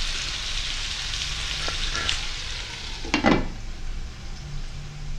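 Vegetables sizzling in hot oil in a wok. About three seconds in, a glass lid is set down on the wok with a short clatter, after which the sizzle sounds muffled and quieter.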